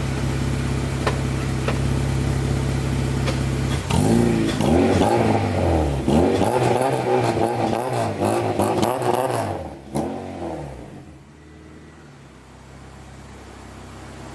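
Honda Integra with a Vibrant dual-tip muffler idling, then revved in several quick blips that rise and fall, before settling back to a quieter idle about ten seconds in.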